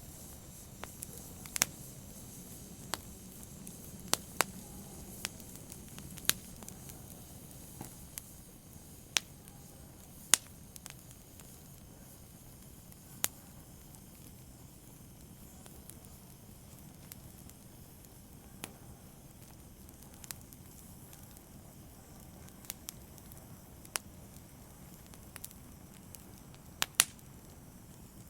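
Open fire burning: irregular sharp crackles and pops over a low, steady rustle of flames.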